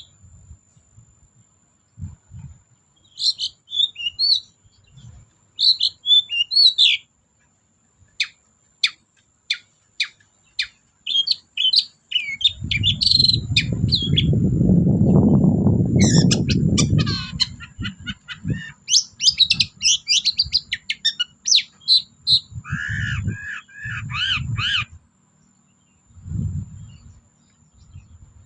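Long-tailed shrike (cendet) singing in bursts of sharp chirps, rapid clicking notes and short warbled trills, with pauses between phrases. About halfway through, a low rumble runs under the song for several seconds.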